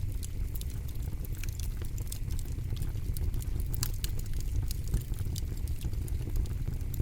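Campfire burning: frequent irregular crackles and sharp pops over a steady low rumble.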